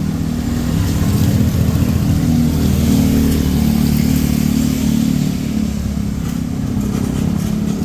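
A motor vehicle's engine running close by, growing louder about a second in and easing off again after the middle, as it passes.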